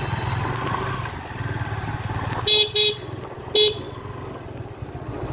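Motorcycle engine running with a low rumble, then a horn beeps three short times: two quick beeps about two and a half seconds in and a third a second later.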